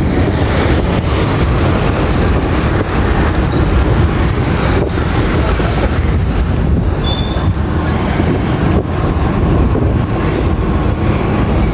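Steady road rumble of moving vehicles and traffic, heavy in the low end, with no clear single engine note.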